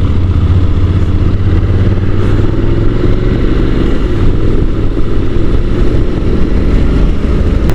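Honda NC750's parallel-twin engine running at steady revs while pulling uphill, with wind noise over the microphone.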